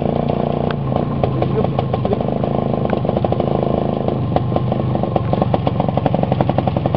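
IZh two-stroke motorcycle engine running while riding, with a fast, even train of exhaust pulses and some clatter; the pulses become denser and sharper after about four seconds.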